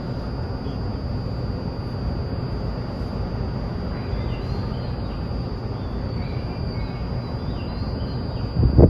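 Tokyu 2020 series electric train running, heard from inside: a steady low rumble of wheels on rail with a thin steady high whine above it. A few loud thumps come near the end.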